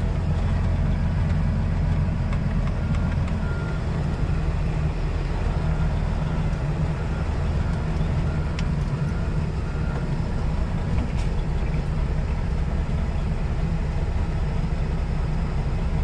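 Semi truck's diesel engine running steadily, heard from inside the cab as the truck moves. A faint backup alarm beeps in short runs for a few seconds in the first half.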